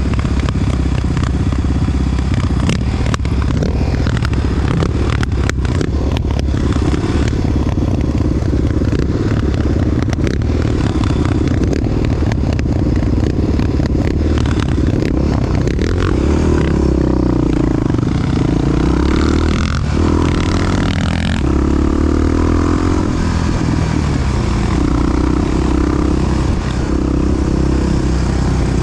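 Big single-cylinder four-stroke Honda XR dirt bike engine running under way, with the revs rising and falling in the second half. A few sharp clicks and rattles about five to seven seconds in.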